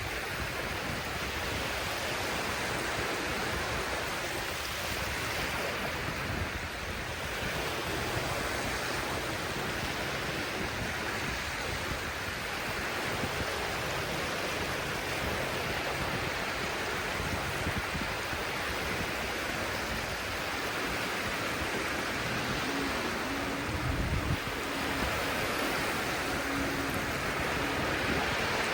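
Sea waves washing onto the shore: a steady rush of surf that swells and eases slowly.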